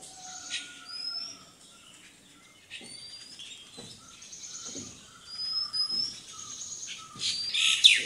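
Birds calling: a string of short, thin whistled chirps and rising notes, with a louder, harsher call near the end.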